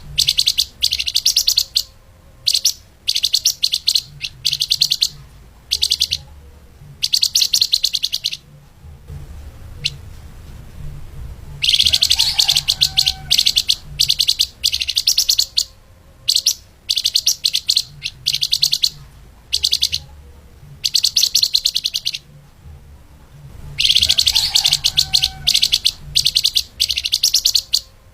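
A flamboyan (lemahan) songbird singing fast, tightly packed runs of rapid high chirping notes in long bursts, broken by a few short pauses.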